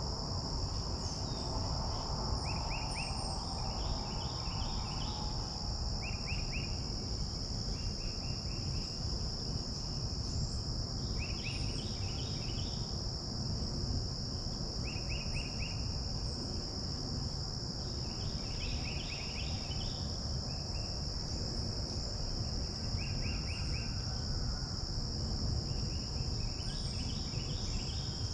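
Steady, high-pitched chorus of insects. Short runs of rapid chirps recur every couple of seconds, over a low rumble.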